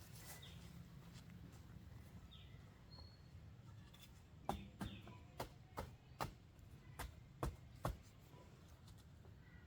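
A quick, irregular run of about eight sharp knocks or snaps, starting about halfway through and lasting some three seconds, over a low steady outdoor background with a few faint bird chirps.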